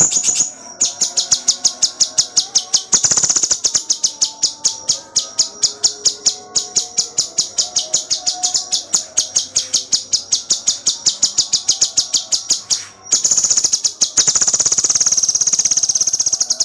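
Cucak cungkok singing a rapid, dense run of high chirps, several a second. It breaks into very fast trills about three seconds in and again from about thirteen seconds on.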